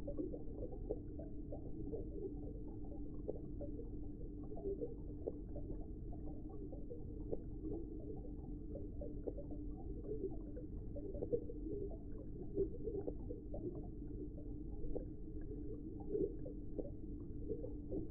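Muffled underwater aquarium ambience: a steady low hum with faint bubbling blips.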